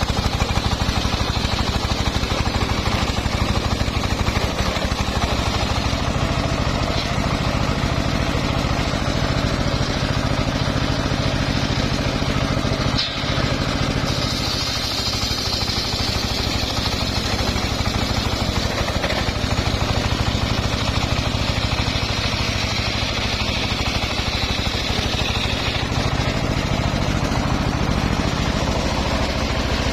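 Engine-driven homemade circular sawmill running steadily with an even engine pulse, sawing mahogany. About halfway through, a higher hiss joins as the blade cuts through the log, and it fades near the end.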